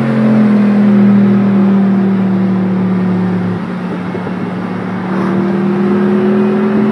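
Car engine running at high, steady revs under acceleration, heard from inside a car's cabin; its pitch climbs gently about five seconds in.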